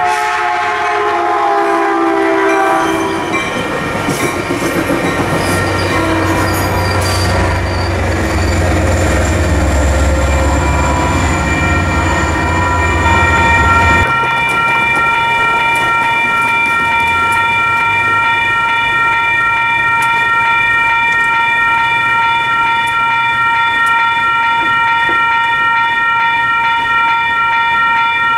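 A passing train's horn sounds, its pitch dropping as the train goes by, and the train then runs past with a deep rumble. About halfway through, the sound cuts abruptly to a railroad grade-crossing warning bell ringing steadily as the crossing gates lower.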